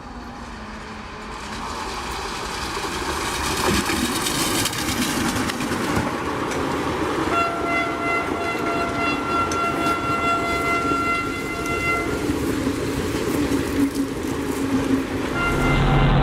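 A train rushing past close by, with rumble and rail clatter building up. Midway it sounds its horn in one long steady blast of about five seconds. Near the end a different low steady drone comes in.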